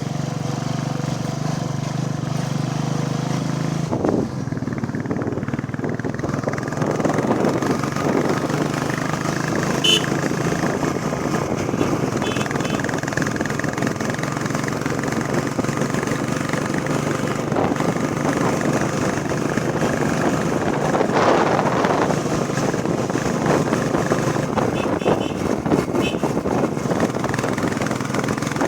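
Royal Enfield Bullet Classic 350's single-cylinder engine running as the motorcycle is ridden, a steady drone whose tone changes about four seconds in.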